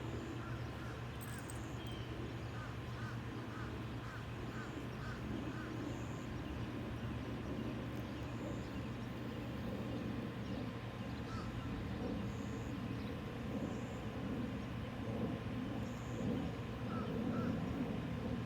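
A bird calling a quick series of short, evenly spaced notes, about two a second, a few seconds in, with a couple more notes near the end, over a steady low hum of outdoor background.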